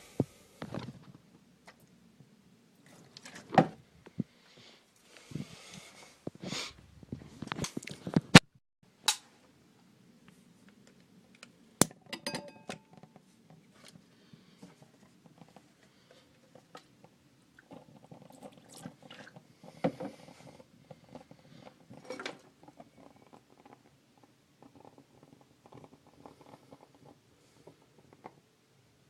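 Hands handling objects while making a homemade candle: scattered clicks, knocks, scrapes and rustles, the sharpest a loud click about eight seconds in and a short ringing knock about twelve seconds in.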